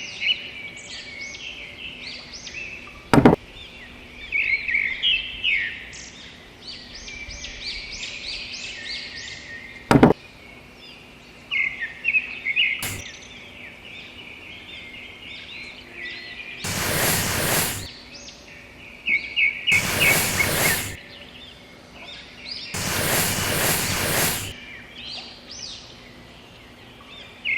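Birds chirping and twittering, with three loud rushing bursts of noise, each about a second and a half long, in the second half and a few sharp clicks earlier on.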